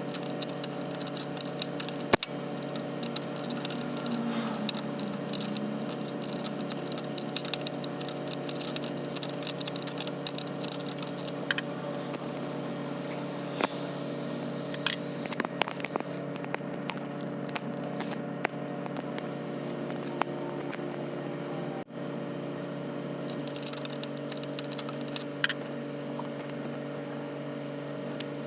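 An engine idling with a steady hum, its low tone shifting slightly about 23 seconds in, with scattered light clicks and scrapes of handling on top.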